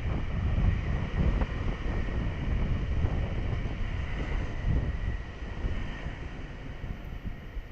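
Honda 125 cc motorcycle running on the move, its engine rumble mixed with wind buffeting the helmet-mounted or bike-mounted action-camera microphone, getting quieter after about five seconds.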